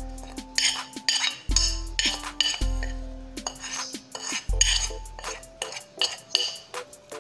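A metal spoon clinking repeatedly against a ceramic plate and bowl as spice is tapped out, over background music with a repeating deep bass note.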